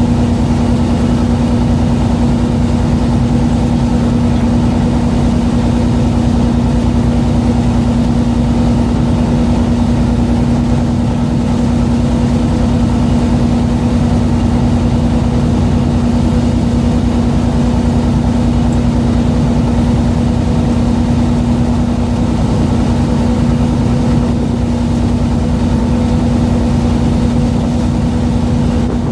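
A boat's engine running steadily: a loud, constant drone at one unchanging pitch.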